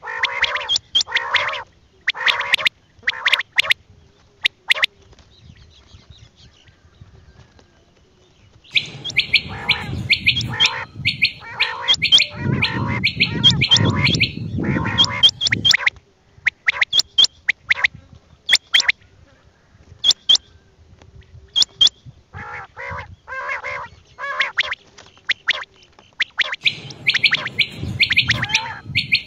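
Quail calling over and over, short calls in quick clusters of two to four with brief gaps between. A low rumbling noise runs under the calls for several seconds in the middle and again near the end.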